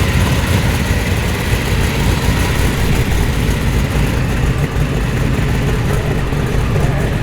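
Performance car's engine running steady and low-pitched as the car rolls slowly in at idle.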